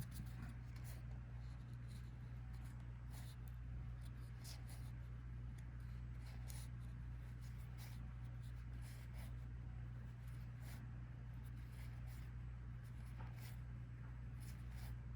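Collectible trading cards being dealt off a deck one by one, short papery flicks and slides about once or twice a second, over a steady low hum.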